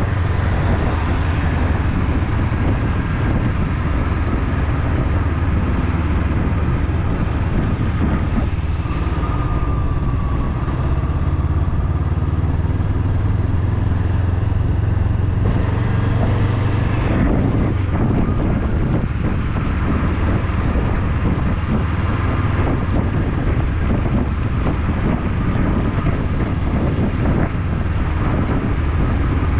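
Motorcycle engine running steadily while riding, with wind noise on the microphone; the engine note shifts for a few seconds about halfway through.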